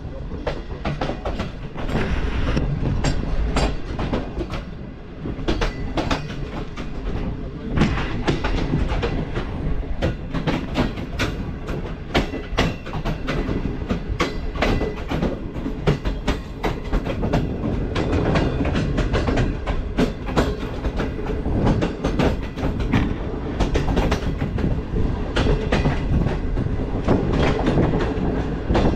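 Passenger train running on the track, its wheels clacking over the rail joints in a continuous stream of clicks and knocks over a steady rumble.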